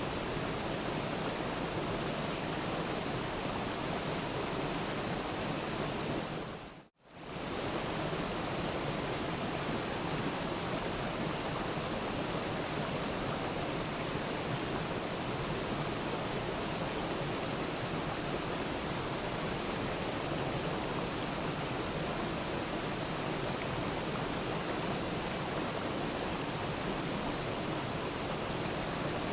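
Waterfall rushing steadily. About seven seconds in it fades out to silence for a moment and comes straight back.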